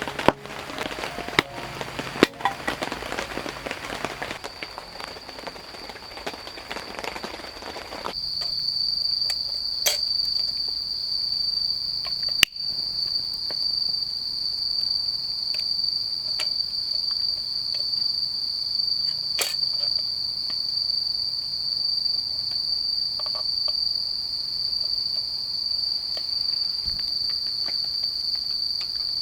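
Crickets trilling in one steady, unbroken high-pitched drone, which grows louder about a quarter of the way in. A few sharp clicks or pops stand out over it.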